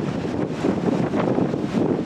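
Strong gusty wind buffeting the microphone, a loud continuous rumble that swells and dips from moment to moment.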